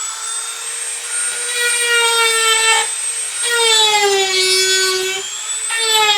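Dremel rotary tool running at high speed and grinding into the epoxy package of a Dallas DS12887A clock chip. Its steady whine drops in pitch as the bit bites into the material, with brief interruptions about 3 seconds and 5.5 seconds in.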